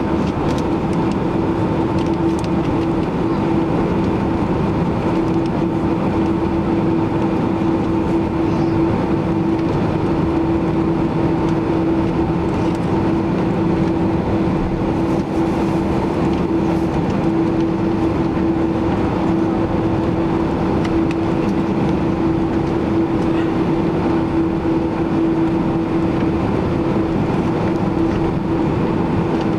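Steady cabin noise inside a Boeing 767-300ER, heard from a window seat by the left wing: the jet engines' drone with a steady hum held under a rushing background noise.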